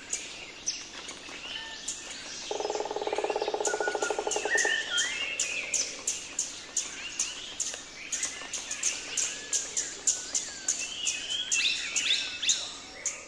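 Birds chirping and warbling, a rapid series of short high chirps, with a buzzing trill from about two and a half to four and a half seconds in. It fades out at the end.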